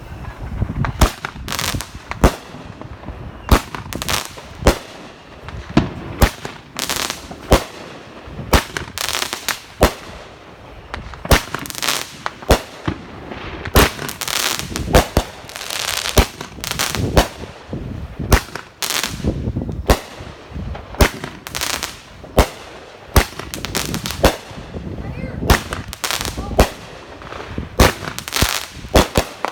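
Boomin Bulldog '21 Gun Salute' 500-gram firework cake firing a long run of shots. The loud, sharp bangs come irregularly, about one or two a second, with rumbling noise between them.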